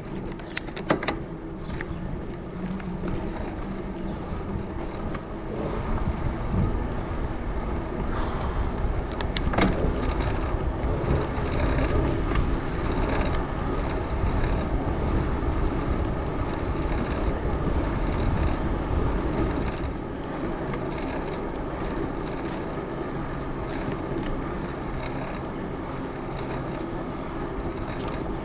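Tyre noise from a Salsa Journeyman gravel bike's 650b tyres rolling on trail pavement while riding, a steady loud hum that swells for a stretch in the middle, with a few sharp clicks or rattles.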